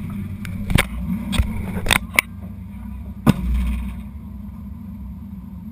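Drag car's engine idling, heard from inside the cabin, with a string of five or six sharp clicks and knocks over the first three and a half seconds, the loudest about three seconds in.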